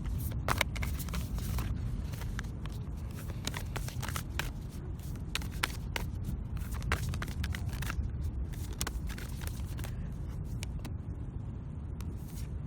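Oracle cards being shuffled and handled: irregular light flicks and clicks of card on card, over a steady low background rumble.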